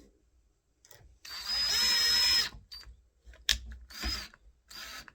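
Cordless drill-driver running for about a second and a half with a steady whine, driving a screw to fix a door latch in place, followed by a few short knocks.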